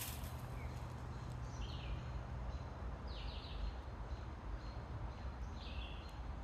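A bird calling: short falling high notes, repeated three times a second or two apart, over a steady low background rumble.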